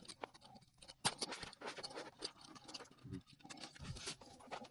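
Hand tools working copper refrigerant line flare fittings: a faint run of irregular small metal clicks, taps and scrapes.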